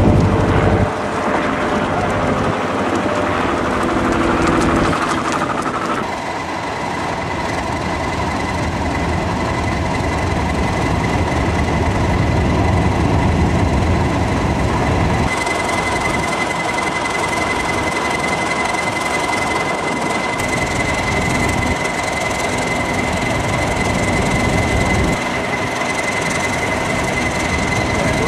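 A train of coaches with Class 31 diesel locomotive 31128 running along a station platform, with wheels rumbling on the rails. A steady high-pitched whine sets in about halfway through and holds as the train comes to a stand.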